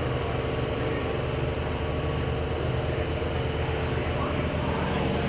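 Steady low mechanical hum and drone, with a faint steady whine above it, from a stationary electric train's equipment.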